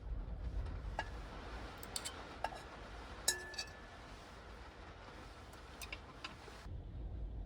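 Scattered light clicks and clinks of small hard objects, about half a dozen, the loudest one about three seconds in with a short ringing tone, over a steady low rumble.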